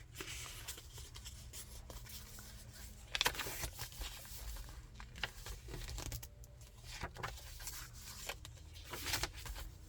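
Pages and tucked-in paper pieces of a chunky handmade junk journal being handled and turned, with soft paper rustling and crinkling. A louder rustle comes about three seconds in, and another near the end.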